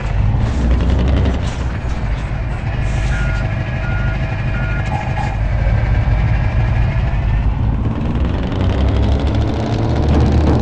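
Heavy truck engine running hard, its pitch rising and falling, with three short reversing-alarm beeps about three to five seconds in.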